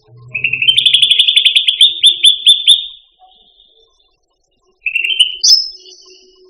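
Cucak ranti singing: a loud, fast trill of sharp repeated notes lasting nearly three seconds, then a shorter burst and a high thin whistle that fades, about five seconds in.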